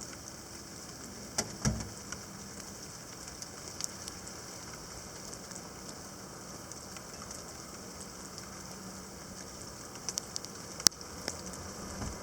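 Light rain falling, a steady hiss with scattered drops ticking close by, a few sharper taps near the end. A low thump about a second and a half in.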